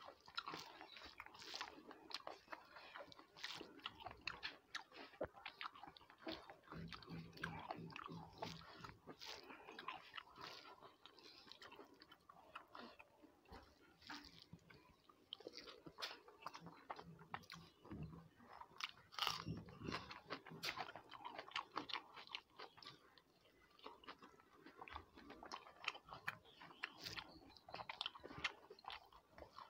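Close-miked eating sounds: a person chewing a mouthful of rice and curry, with many small, irregular wet clicks, while her fingers mix the rice and curry on the plate.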